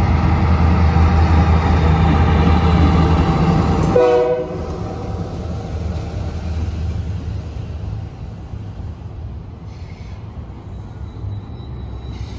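Diesel engine of a rebuilt ex-GP9 locomotive leading a rail work train past close by: steady engine tones over a low rumble that drop sharply in pitch and fall away about four seconds in as the unit goes by. The quieter rumble of empty tie flatcars rolling over the rails follows, with a faint high wheel squeal near the end.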